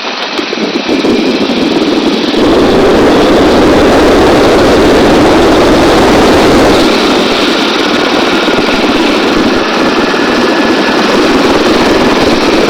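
Helicopter in flight: a loud, steady rush of rotor and turbine noise heard inside the aircraft through the crew's intercom.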